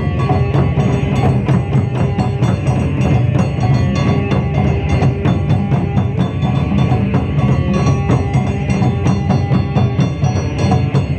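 Japanese taiko drums played live in a fast, unbroken rhythm, with sharp wooden clicks among the drum strokes.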